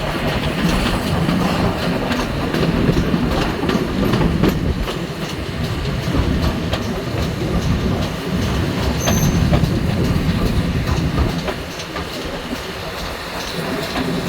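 A train rolling along the track: a steady rumble of wheels on rails with irregular clicks over the joints.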